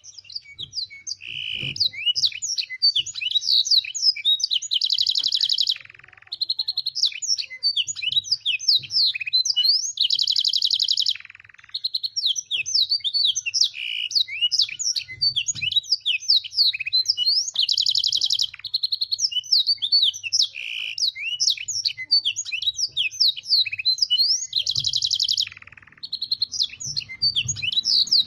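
Domestic canary singing a long, rapid song filled with learned blackthroat phrases. Fast, high, down-slurred notes run in quick succession, broken every few seconds by a held buzzy rolling trill.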